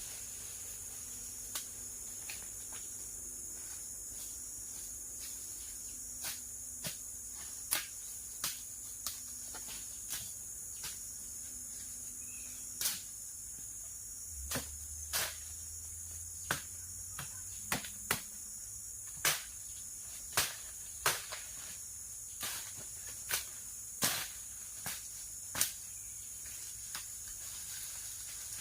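Steady high-pitched drone of an insect chorus, with irregular sharp clicks or snaps, more frequent in the second half.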